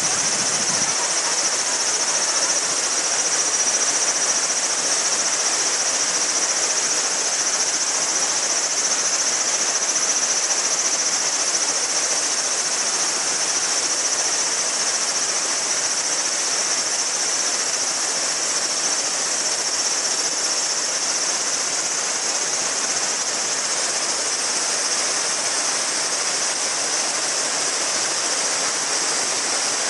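A shallow mountain river babbling steadily over stones, with a chorus of cicadas making a steady high buzz over the water.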